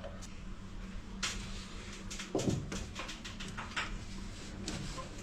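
Scattered clicks and knocks of PVC pipe and fittings being handled during a drain-pipe repair, with one heavier knock about two and a half seconds in.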